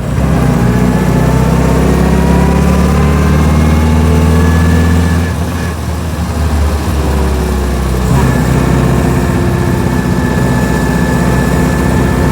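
1924 Austin Seven's small side-valve four-cylinder engine heard from inside the cabin, pitch rising as it accelerates. About five seconds in it dips briefly, then climbs again and settles to a steady note.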